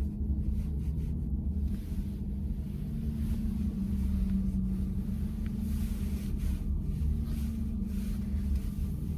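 Steady low rumble of road and tyre noise heard inside the cabin of a VW ID.4 electric SUV while it is being driven.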